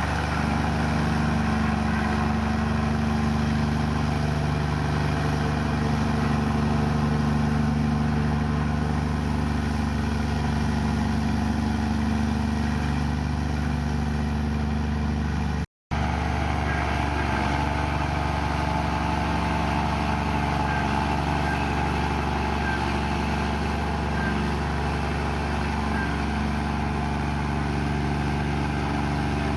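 Komatsu bulldozer's diesel engine running steadily, with a split-second dropout about halfway through.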